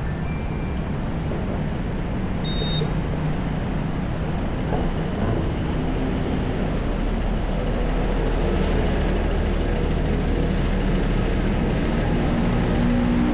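Road traffic: the engines and tyres of passing cars and buses in a steady mix, with a low engine drone growing louder in the second half. A few brief high chirps sound in the first three seconds.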